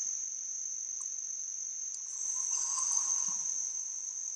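Crickets or similar insects chirring in one steady, continuous high-pitched trill, with a faint brief rush of noise about two to three seconds in.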